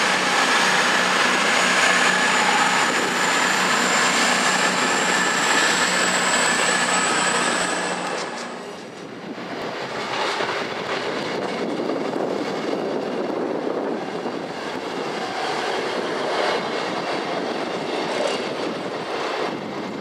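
Train running past on the rails: loud, with a steady low hum and a thin whine slowly rising in pitch. After about eight seconds it drops to quieter, rougher running noise.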